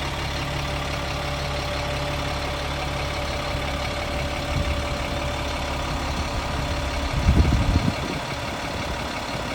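Cat 3126 inline-six diesel of a Stewart & Stevenson M1085A1 military cargo truck idling steadily. Its low hum changes about halfway through, and a louder, rough low rumble lasting under a second comes near the end.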